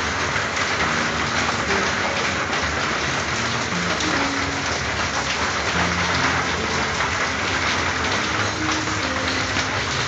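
Steady, heavy rain falling on a corrugated tin roof, a dense unbroken patter with a low rumble underneath.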